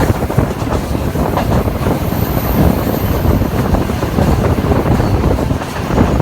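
The 5 Up Green Line express train running: a loud, steady rumbling noise of the moving train.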